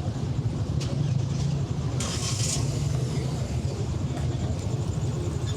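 City road traffic: a steady low rumble of car engines and tyres passing, with a short hiss about two seconds in.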